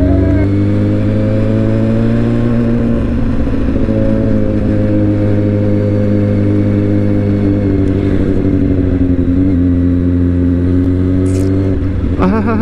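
Motorcycle engine heard from the rider's seat, running steadily at a low cruising speed. Its pitch rises and dips slightly with the throttle, over a light rush of wind.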